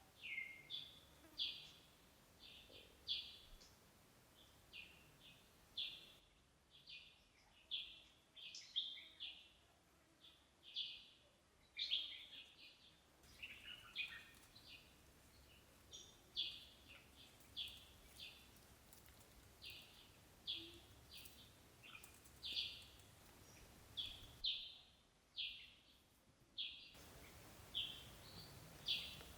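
A bird chirping: short, high calls repeated over and over, one or two a second, over faint background noise that cuts out and comes back abruptly a few times.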